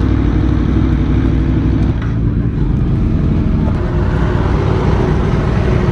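Aprilia Tuono V4 1100's V4 motorcycle engine running steadily.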